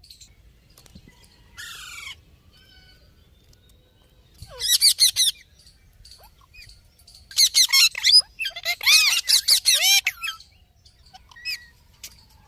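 Pet birds calling in bursts of fast, high-pitched, repeated chirping notes. One short burst comes about four and a half seconds in and longer runs follow about seven to ten seconds in.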